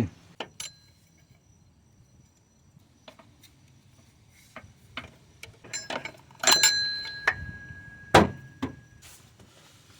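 Metal tools and parts being handled: scattered light clicks, then several sharp metallic clinks with a short ringing after each, the loudest about six and a half and eight seconds in.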